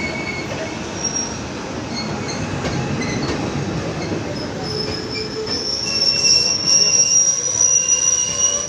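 Passenger train's steel wheels squealing on the rails over a rumble of running noise. The high squeal swells and gets louder about six seconds in, then cuts off suddenly.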